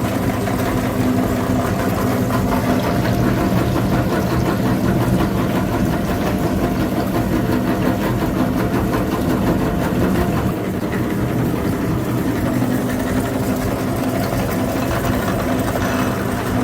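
Mini tractor's engine running steadily, with a low, even mechanical drone. It gets slightly quieter about ten seconds in.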